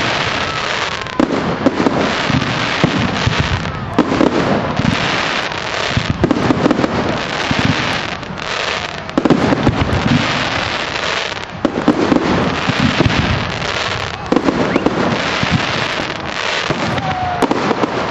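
Fireworks display in a dense, continuous barrage: nonstop crackling with heavier shell bursts booming every two to three seconds.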